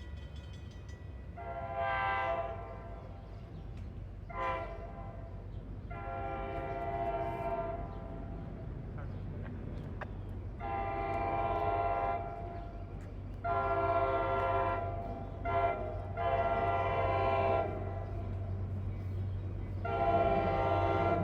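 Diesel locomotive air horn (NJ Transit GP40PH-2B) sounding a series of long and short blasts: repeated Rule 14L grade-crossing signals as the train approaches. A steady low engine rumble runs beneath.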